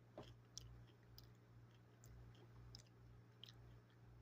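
Faint chewing of a mouthful of coleslaw, with soft wet mouth clicks every half second or so over a steady low hum.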